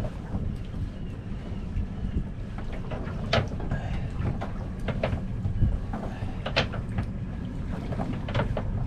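Small boat's motor running low and steady, with wind on the microphone, and four short sharp knocks spaced about a second and a half apart.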